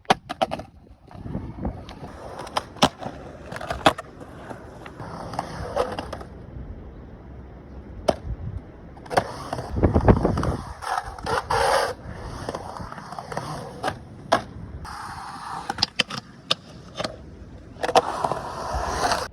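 Skateboard riding: wheels rolling with a steady rumble, broken by many sharp clacks and knocks of the board hitting the ground.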